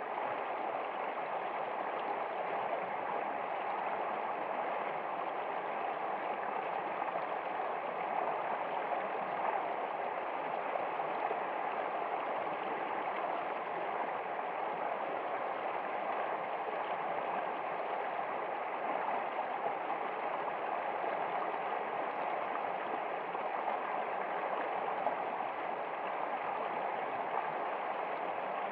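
Running water of a flowing stream, a steady even rush with no breaks.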